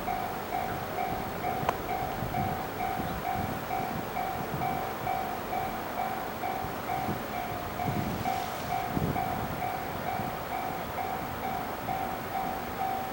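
Railway level-crossing warning bell ringing in an even pulse, about two strikes a second, over the low rumble of a freight train hauled by EF64 electric locomotives.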